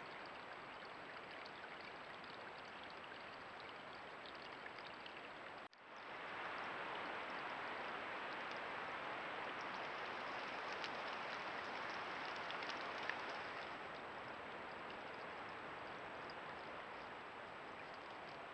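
Creek water flowing steadily, a constant rushing wash. It cuts out for an instant about six seconds in and comes back a little louder.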